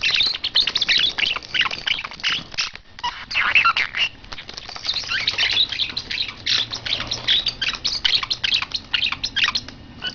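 Pet bird squawking and chattering rapidly, an almost unbroken run of short high calls with a brief pause about three seconds in.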